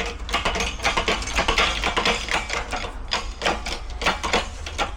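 Rapid, irregular metallic clicking and tapping from tools working a differential pinion bearing onto its pinion, over a steady low hum.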